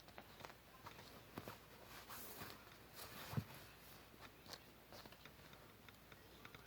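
Faint handling noise of paper and craft tools: scattered light clicks and short rustles, with one soft thump about three and a half seconds in.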